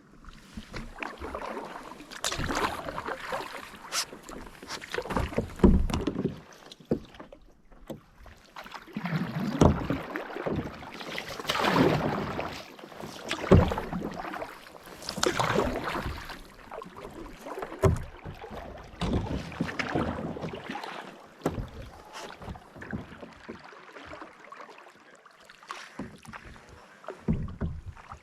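Kayak paddles dipping and splashing through the water in strokes every couple of seconds, with short sharp clicks between them.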